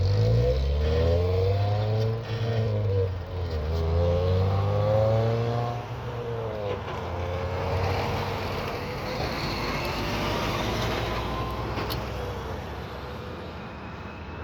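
A car engine nearby, its pitch rising and dropping back three times like a car accelerating through its gears, followed by a steadier hiss of tyres on a wet road that fades toward the end.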